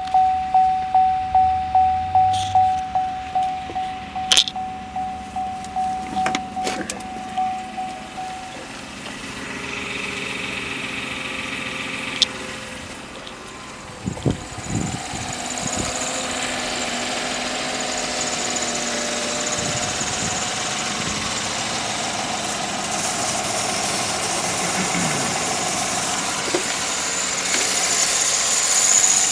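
A steady beeping tone pulsing about twice a second for the first eight seconds. About fourteen seconds in, a GM 5.3 L L83 V8 starts and runs steadily, getting louder near the end.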